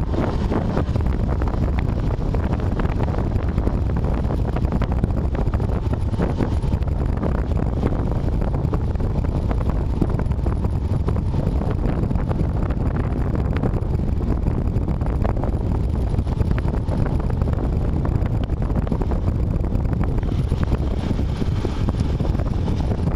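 A car driving in the rain, heard from inside the cabin through a dashcam's microphone: a steady low rumble of road and engine noise with scattered light ticks over it.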